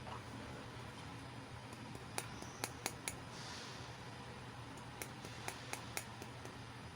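Small plastic toy pieces clicking as they are handled and set down: two quick groups of about four sharp clicks, with a brief soft rustle between, over a faint steady hiss.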